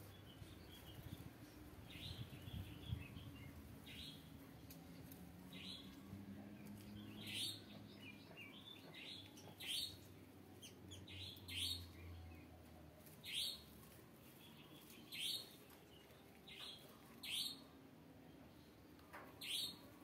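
Small aviary birds chirping: short, sharp calls that fall in pitch. A few come scattered at first, then a louder call repeats about every two seconds.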